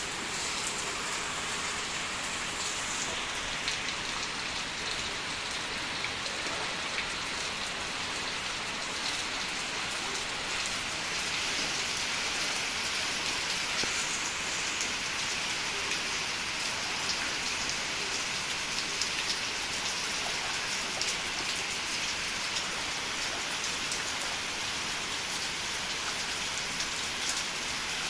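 Heavy rain falling steadily: a dense, even hiss with scattered drop impacts.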